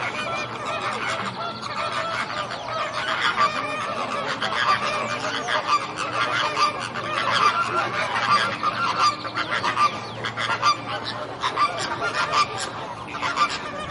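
A flock of flamingos honking and chattering, many short nasal, goose-like calls overlapping without a break.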